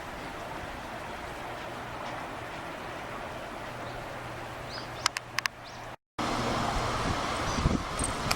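Steady outdoor background noise with a faint low hum, broken by a quick run of four sharp clicks about five seconds in. The sound drops out for a moment just before the sixth second and comes back louder.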